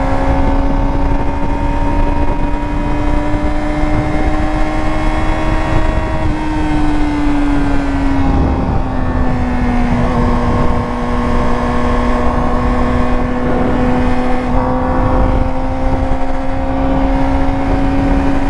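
Yamaha R6's inline-four engine running steadily at cruising revs, its note creeping slowly upward. The note eases down a little around the middle, then climbs slowly again, over a steady low rush of wind and road noise.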